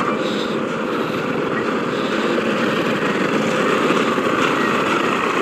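Steady motorcycle riding noise: engine running and wind on the move through city traffic.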